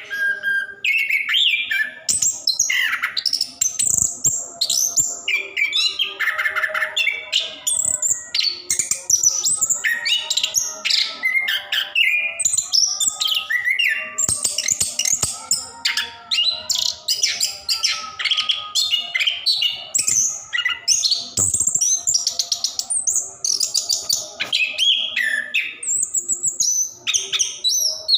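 Orange-headed thrush (anis kembang) singing without pause, a long run of quick, varied whistled and chirping phrases.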